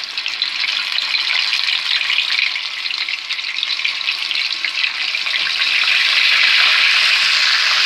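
Yogurt-marinated chicken pieces frying in hot oil in a pan: a loud, steady sizzle with crackles, building over the first second.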